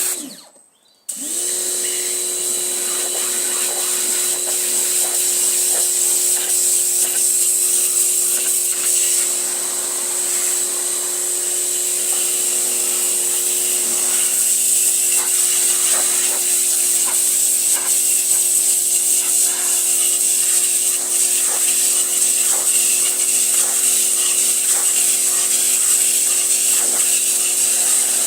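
Pressure washer cuts out at the start and starts again about a second in, its motor rising in pitch to a steady hum under the loud hiss of the water jet.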